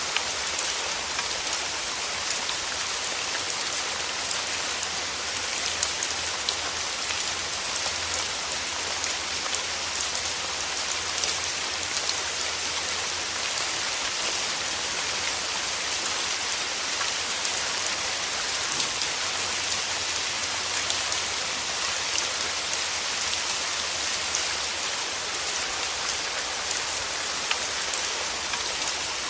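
Steady rain falling, a dense even hiss with many small drop patters and no thunder.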